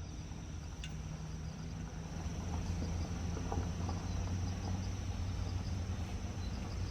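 Crickets chirping steadily, a high even trill, over a steady low hum, with a few faint clicks.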